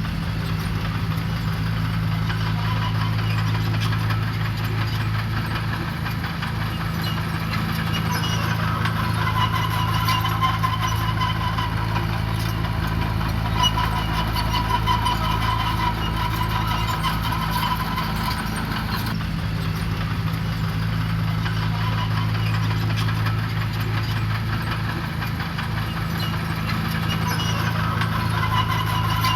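Diesel engine of heavy earthmoving equipment running steadily at a low, even speed.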